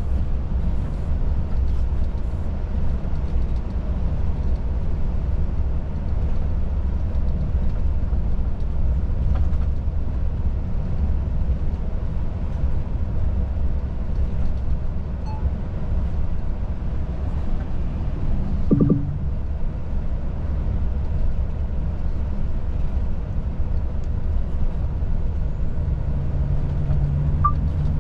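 Volvo FH 500 truck driving along: a steady low drone of engine and road noise. A low hum joins in near the end.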